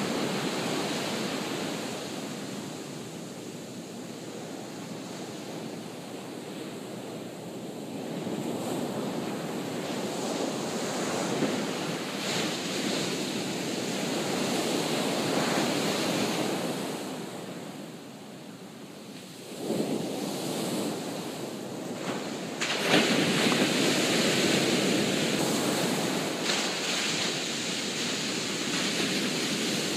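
Ocean surf breaking and washing up a sandy beach, swelling and ebbing in waves. A wave crashes in sharply a little past the middle, and another, louder one a few seconds later.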